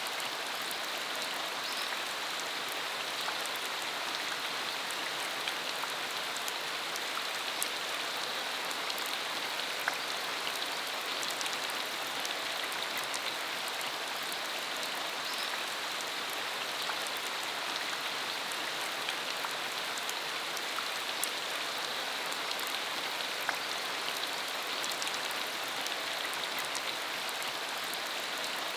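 Steady rain: an even hiss of falling rain with many scattered sharp ticks of single drops striking.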